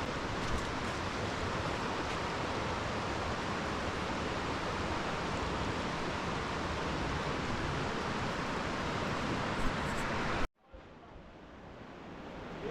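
Steady rush of falling or flowing water, a dense even roar. It cuts off abruptly about ten and a half seconds in, leaving a much quieter background that slowly builds back up.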